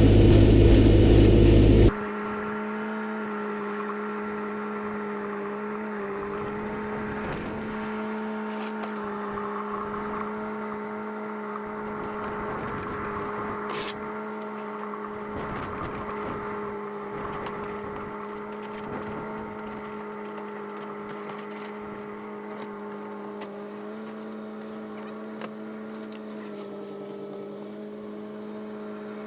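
A vehicle engine running loudly, cut off abruptly about two seconds in. After that a steady, even hum with a fixed pitch runs on.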